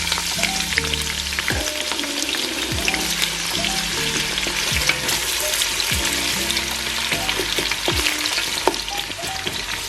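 Onion frying in hot vegetable oil in a pan, a steady sizzle full of small crackles.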